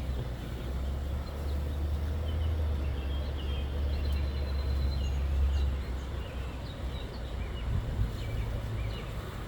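Small songbirds chirping faintly, short scattered calls mostly in the middle of the stretch, over a steady low rumble that is louder than the birds.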